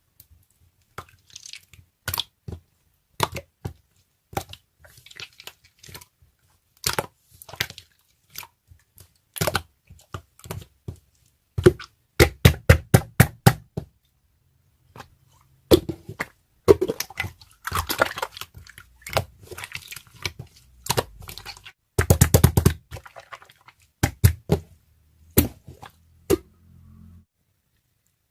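A long irregular series of sharp clicks, taps and crunches, with quick rapid runs of clicks about halfway through and again later.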